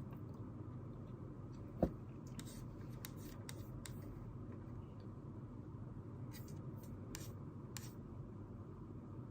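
Desk sounds while studying: a steady faint room hum, a single sharp knock about two seconds in, then a run of short, faint scratchy strokes, such as writing makes.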